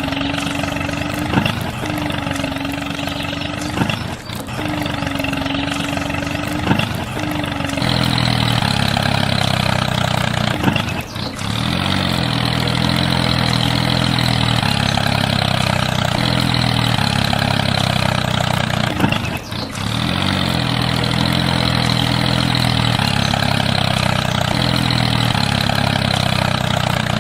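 Small motor running steadily. For the first several seconds its tone breaks off briefly every second or two with clicks. About eight seconds in it grows louder and steadier, dropping out briefly twice.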